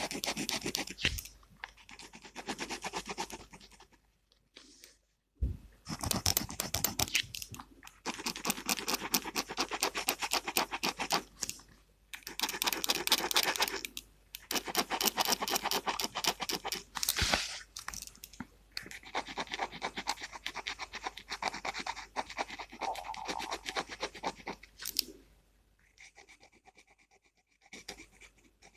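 Gel pen scratching across paper in rapid back-and-forth strokes, in runs of a few seconds separated by short pauses.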